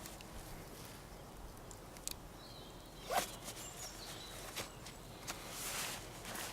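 Quiet forest ambience: faint birds chirping high up, with scattered rustles and knocks close by, the loudest about three seconds in.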